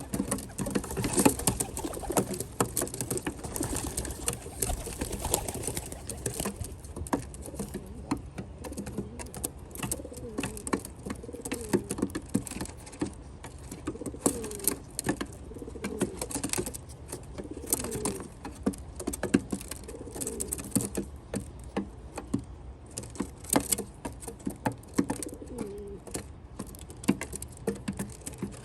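Rock doves (common pigeons) cooing, a string of low wavering coos repeated through the middle stretch, over many sharp irregular clicks of beaks pecking at seeds and nuts on the feeder platform.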